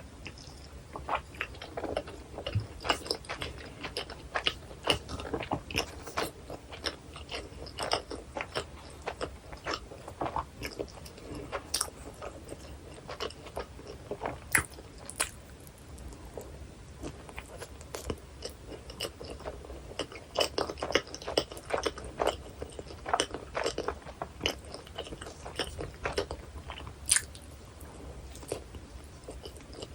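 Close-miked eating sounds: a person biting into and chewing a hot dog in a soft bun with onion, chili and cheese sauce, with irregular crunches and wet mouth clicks.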